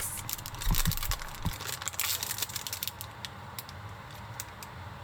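Packaging of a box of Japanese cream stew roux being opened and handled: a run of small crinkly clicks and crackles, busy for the first few seconds, then only a scattered few.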